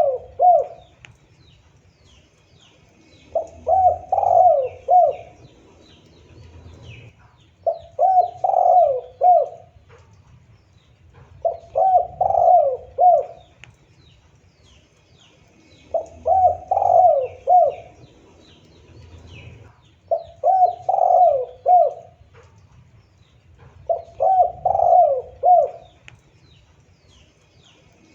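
Spotted dove cooing: a phrase of several low coos about every four seconds, seven phrases in all, with faint chirps of small birds behind.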